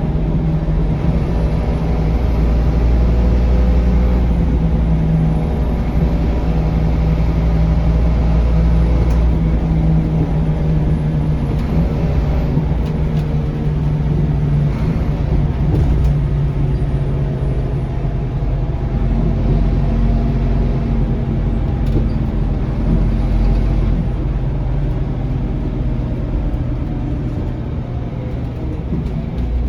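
Scania K230UB bus's diesel engine heard from inside while under way: a steady engine drone with a faint high whine above it, easing off a little near the end.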